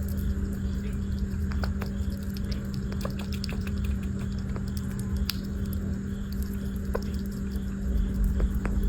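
Small pet animal moving about, with scattered light clicks and taps over a steady low hum.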